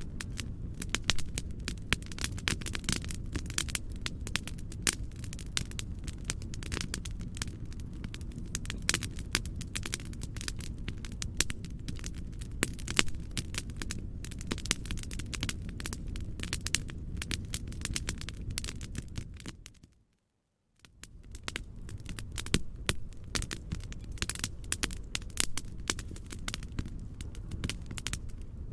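Fire crackling in a fireplace: dense, irregular snaps and pops over a steady low noise rumble. About two-thirds of the way through, the sound fades out to a moment of silence and fades back in.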